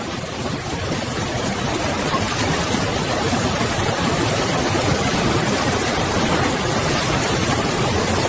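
Steady rushing noise of floodwater.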